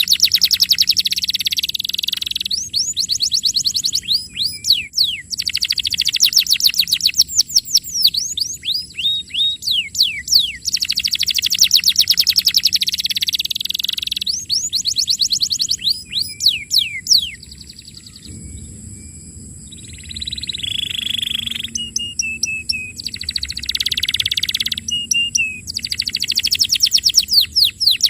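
Domestic canary singing: phrases of fast trills, each made of rapidly repeated high sweeping notes, one phrase running into the next, with a brief quieter lull about two-thirds of the way through before the trilling resumes.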